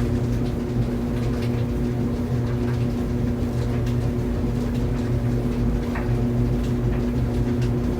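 Clothes dryer running: a steady motor hum with faint, irregular ticks over it.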